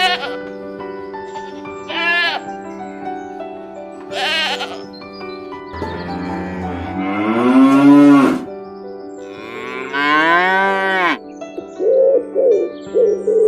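Sheep bleating in short calls, then two long cattle moos, the first the loudest, over soft sustained background music; a run of short repeated calls begins near the end.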